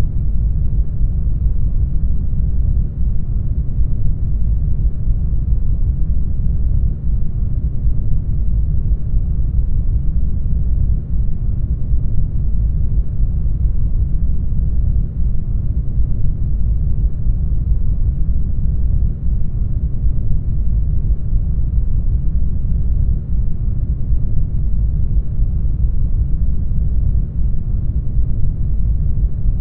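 Brown noise: a steady, even hiss that is deep and heavy in the bass and fades away toward the treble, with no change in level.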